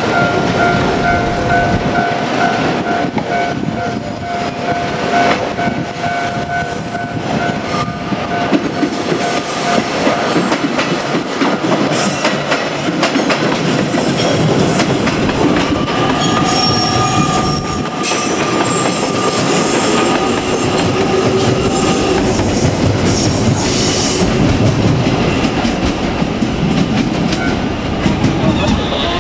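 JR Kyushu 817 series electric train passing at close range: a loud, continuous rumble with wheels clattering over the rail joints. A steady ringing tone, the level crossing's warning bell, sounds through the first third and is then drowned out by the train.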